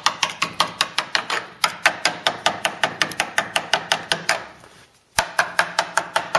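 Rapid, light hammer taps on a rotted steel chassis leg, about five a second, with a short break about four and a half seconds in before the tapping resumes.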